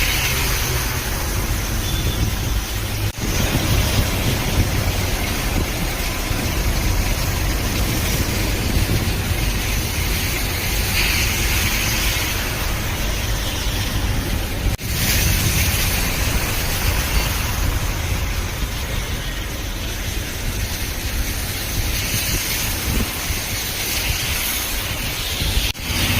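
Road traffic: vehicle engines running under a steady, dense rush of noise, broken by brief dropouts where the footage cuts, about three seconds in, midway and near the end.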